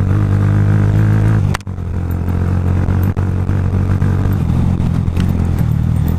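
Romet K125's 125 cc single-cylinder four-stroke engine running hard under way. About one and a half seconds in it cuts out for an instant, then pulls steadily again.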